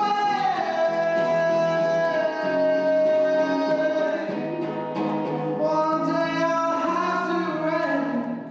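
A singer holding long, drawn-out notes over acoustic guitar, closing a song; the music dies away right at the end.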